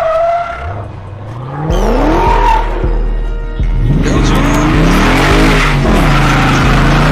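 A performance car's engine revving hard, climbing steeply in pitch, dropping back, then revving up and down again. From about three and a half seconds in, tyres squeal and skid under it, as in a burnout.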